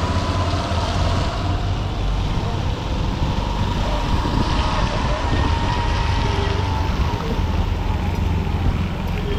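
Honda SP125 single-cylinder motorcycle engine running while riding in traffic, with wind buffeting the helmet-mounted microphone and the steady noise of surrounding traffic.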